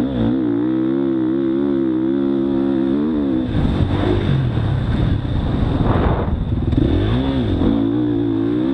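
Motocross dirt bike engine under way on the track: it holds steady revs, then the pitch dips and wavers as the throttle is eased off and rolled back on, and climbs back to steady revs near the end.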